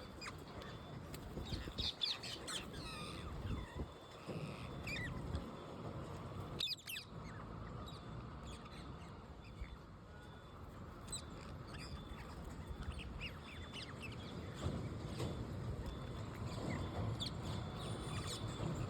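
Wild parrots calling: short squawks and chirps in scattered bunches over a steady low background noise.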